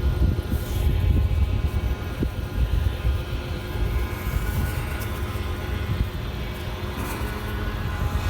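A steady low rumble with a faint, even hum over it.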